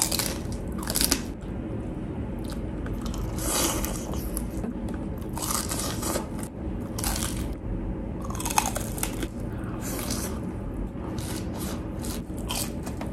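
Someone biting and chewing crispy deep-fried pork, with loud crackling crunches of the skin coming at irregular intervals about every second.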